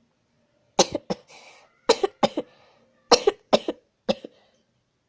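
A person coughing repeatedly: about eight short, sharp coughs, mostly in quick pairs, with brief pauses between.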